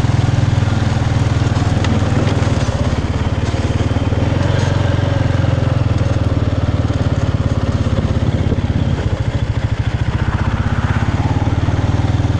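Motorbike engine running steadily at low revs, a constant pulsing note with no change in speed.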